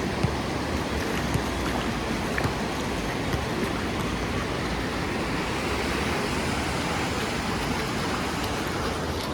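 Sea surf breaking and washing up a beach: a steady rush of water noise that swells a little a bit past halfway through.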